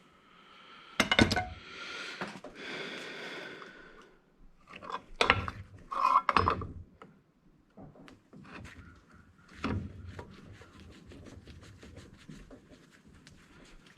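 Metal parts of a dismantled electric angle grinder handled and knocked about on a workbench. A loud clank about a second in rings on for a few seconds, more clanks follow, then lighter clicks and rattles.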